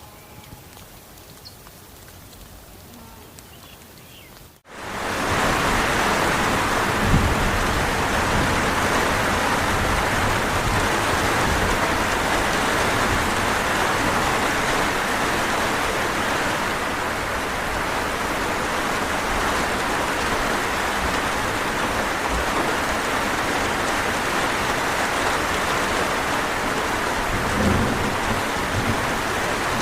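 Heavy rain, a dense steady hiss that starts abruptly about five seconds in after a faint, quiet opening. Two brief low thumps stand out in it, about seven seconds in and near the end.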